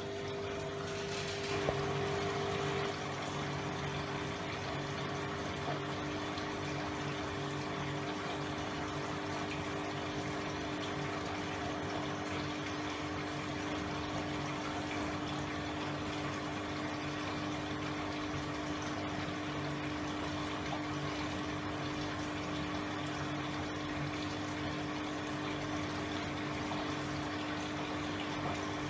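Hoover Electra 535 Dual Spin washing machine filling with water: a steady rush of water into the drum over a constant hum, a little louder for a second or so near the start, when the hum drops in pitch.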